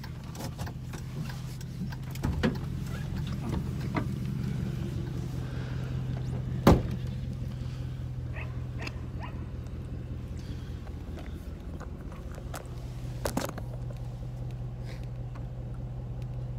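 A vehicle's engine idling steadily, with scattered clicks and knocks and one loud slam about seven seconds in, like a car door shutting; two more knocks come about thirteen seconds in.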